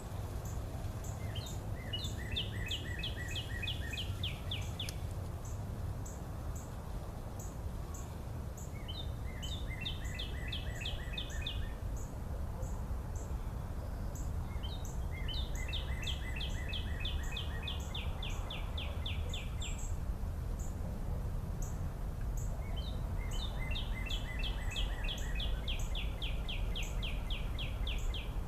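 A songbird singing a rapid trill in bouts several seconds long, four times, over a faint high tick that repeats about twice a second and a steady low rumble of noise.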